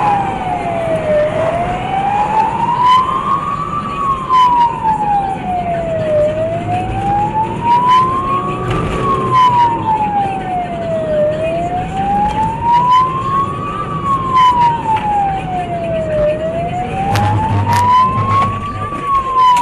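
Police car siren on a slow wail, rising and falling smoothly about every five seconds, over road and engine rumble.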